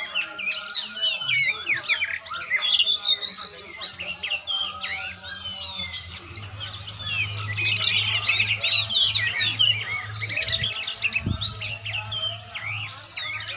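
Oriental magpie-robin (kacer) singing a fast, varied song of gliding whistles, chatters and harsh squawks, almost without a break.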